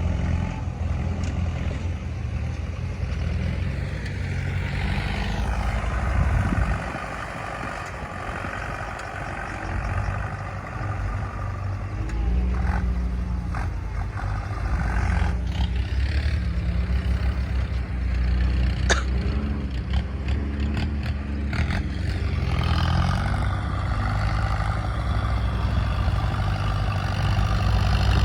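Heavy diesel engine of earthmoving machinery running steadily. It eases off for a few seconds, then picks up again, with a few sharp metallic knocks.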